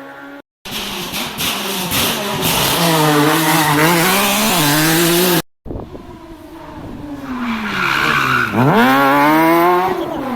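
Rally cars at full throttle on a stage, heard in two short clips. In the first the engine runs hard under a thick hiss of tyre and gravel noise. In the second the engine pitch drops, then climbs sharply about eight and a half seconds in as the car accelerates.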